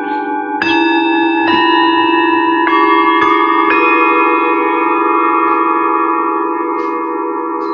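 Several metal singing bowls struck one after another, about five strikes in the first four seconds, each adding its own ringing tone to the rest. The layered ringing then slowly fades.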